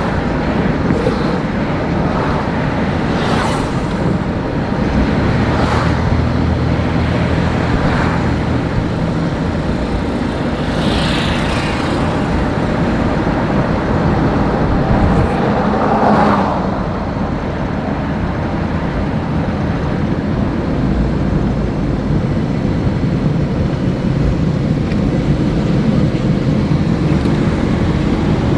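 Car driving on a road: a steady mix of engine and tyre noise, with a few brief swells from passing traffic.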